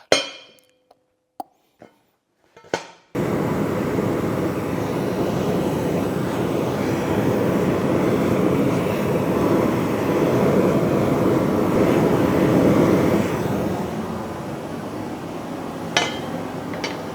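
A few light metal clinks, then about three seconds in a gas forge burner lights and runs with a steady rushing hiss, easing off slightly near the end. A couple of sharp metal clinks come near the end.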